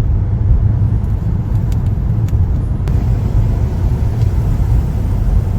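A car driving, with a steady low road-and-engine rumble.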